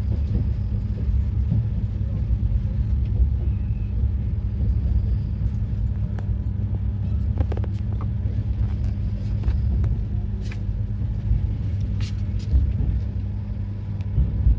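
Passenger train in motion: a steady low rumble with a few sharp clicks and knocks now and then.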